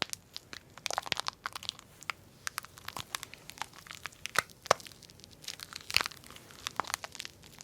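Toy packaging being unwrapped by hand: irregular crinkling and tearing with sharp crackles and clicks, the loudest about a third and three quarters of the way through.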